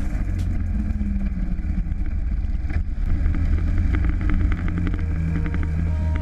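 Dirt bike engine running steadily under way, a low dense rumble from the ride.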